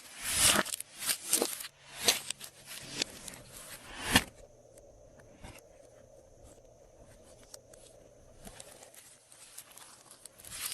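Glossy slime being worked by hand, making sticky crackling and popping sounds in quick bursts; it goes quiet for several seconds about four seconds in, and the crackling resumes near the end.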